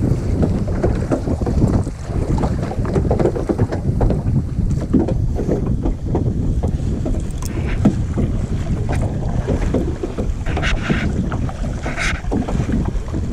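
Wind buffeting the microphone over water sloshing around a kayak, with a few brief splashes near the end.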